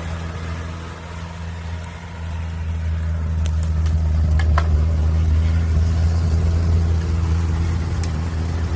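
Off-road vehicle's engine running steadily under load, growing louder about two seconds in as it pulls harder, with a few brief clicks or knocks near the middle.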